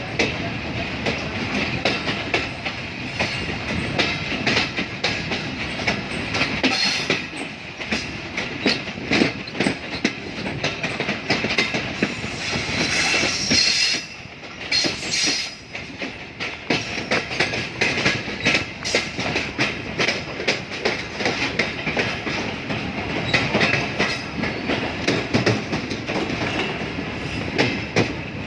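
Train running along the rails, its wheels clattering steadily over the track with a continuous rushing noise; the sound briefly drops away about fourteen seconds in.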